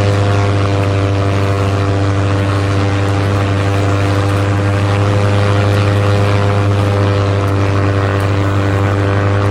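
Battery-powered toy aeroplane running with a steady, unchanging humming drone: a strong low hum with a buzzy, even set of tones above it.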